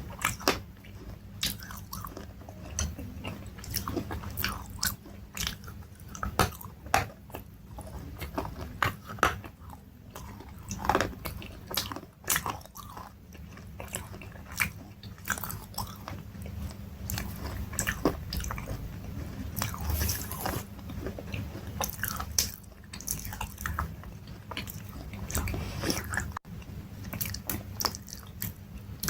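Close-miked crunchy food being bitten and chewed, with irregular sharp crackling crunches a few times a second and louder bites now and then.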